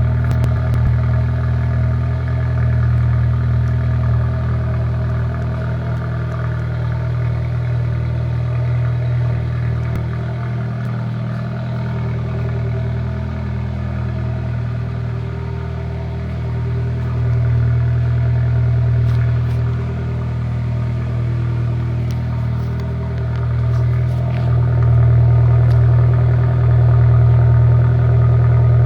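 Exhaust of a VW Golf Mk2 with a 1.8-litre 20-valve turbo four-cylinder (20VT) engine, running through a straight-through system with catalytic converter and gutted silencer, idling with a deep, steady drone. It gets somewhat louder near the end.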